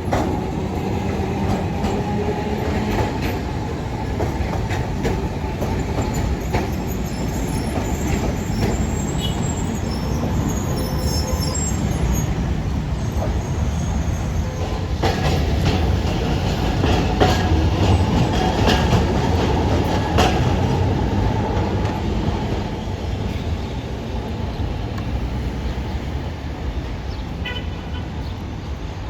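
Alexandria tram running on its rails: a steady low rumble with clattering clicks from the wheels and briefly a faint wheel squeal. It grows louder toward the middle and eases off near the end.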